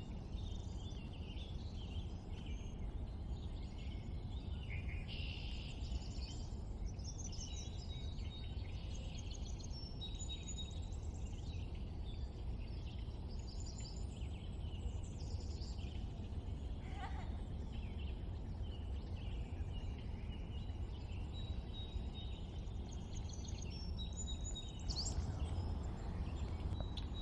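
Wild birds chirping and whistling, many short high calls overlapping, over a steady low background rumble. About halfway through, one call glides steeply downward.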